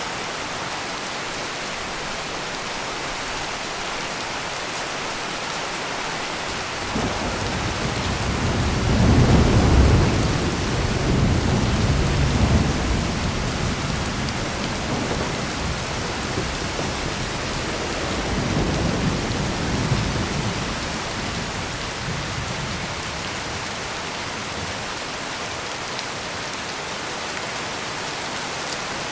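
Steady heavy rain, with a long roll of thunder that starts about a quarter of the way in, is loudest a few seconds later, rumbles on in several swells and fades out about three quarters of the way through.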